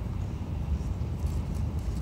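Steady low rumble of a Shinkansen bullet train running at speed, heard inside the passenger cabin, with a few faint clicks.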